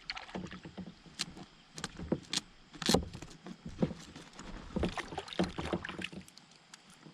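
Irregular clicks and knocks of fishing gear and hands moving about in a kayak, with one louder knock about three seconds in.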